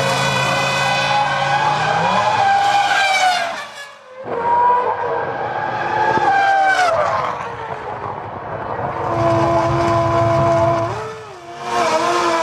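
Formula One cars' 3.0-litre V10 engines running at high revs, several cars in turn, each one's pitch falling as it passes or brakes, with a brief break about four seconds in.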